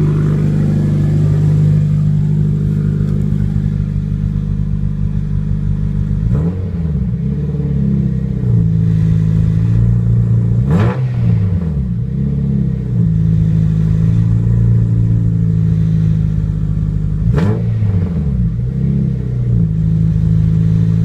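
Honda Civic Si engine on a cold start, idling steadily at first and then revved a few times, its pitch rising sharply and dropping back to idle; the strongest revs come near the middle and again later.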